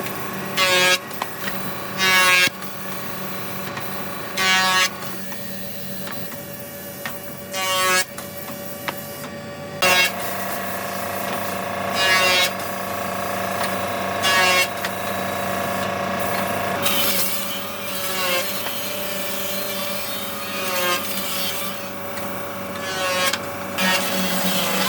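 Woodworking machinery running with a steady hum. About every two to three seconds a short, loud, high-pitched whine breaks in, about ten times in all, as a blade cuts into wood.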